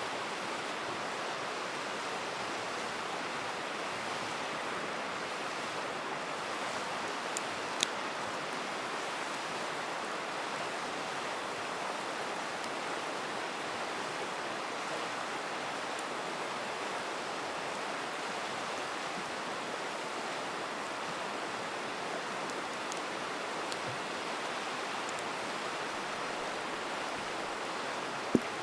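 River rushing steadily, with a few sharp crackles and pops from a campfire, the loudest pop near the end.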